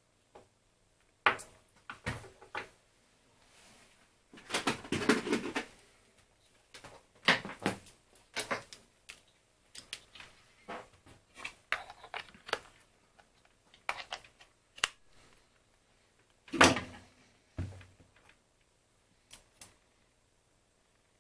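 Hands handling small plastic and metal parts on a workbench: irregular clicks and taps, a longer scraping rustle about five seconds in, and a louder knock about three-quarters of the way through.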